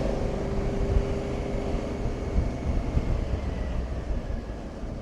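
Honda Africa Twin motorcycle engine running on the move, with road and wind noise, growing quieter toward the end as the bike eases off.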